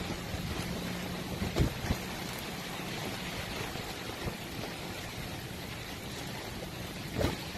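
Heavy rain pouring down steadily in a hurricane's outer band. A low hum sits under it in the first few seconds, and a few short knocks come, two about a second and a half in and one near the end.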